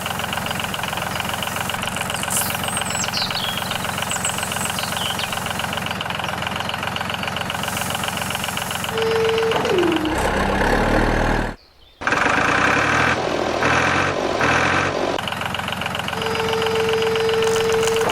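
A steady, engine-like machine sound with a fast regular pulse, from the miniature DIY tractor. Twice a short tone holds and then slides down in pitch. Around the middle the sound changes and cuts out briefly, then resumes.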